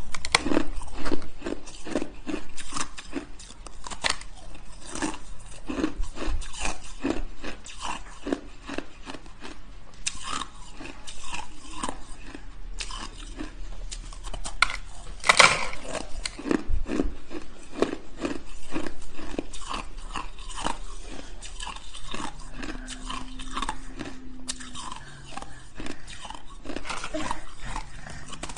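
A person biting and chewing hard shaved ice: a continuous, irregular run of crunches, with one sharper, louder crunch about halfway through.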